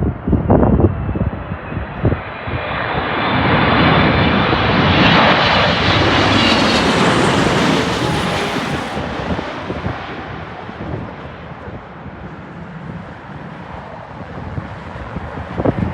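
Jet airliner on landing approach passing by: the engine noise swells over a few seconds, peaks with a high whine, then fades away. Wind gusts buffet the microphone at the start.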